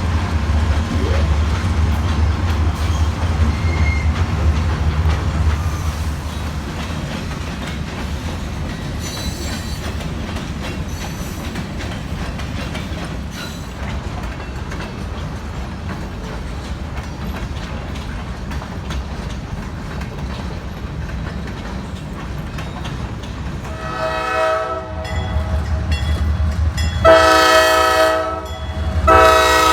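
Freight train rolling by on the rails: a heavy diesel locomotive rumble at first, easing into the steady rolling and clatter of the cars. Near the end a multi-tone locomotive air horn sounds three blasts, a short one, a longer one, and a third that carries on.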